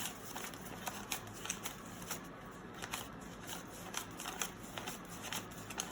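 One-dollar paper bills being counted out by hand, a quick run of short, crisp paper rustles and flicks as each note is laid down.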